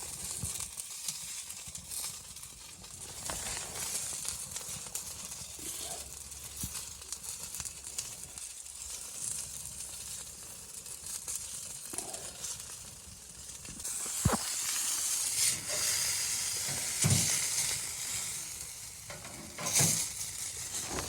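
A steady sizzling hiss with a few sharp clicks, growing louder and brighter about two-thirds of the way through.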